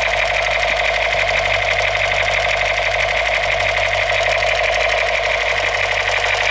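Battery-powered toy gun buzzing with a fast, steady rattle while its trigger is held, likely a firing mechanism or electronic firing effect. It stays at a constant level throughout.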